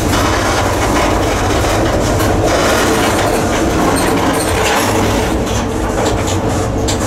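Covered hopper grain car rolling in a moving freight train, heard from on board: a loud, steady rumble of steel wheels on the rails with scattered sharp clanks and clicks from the car.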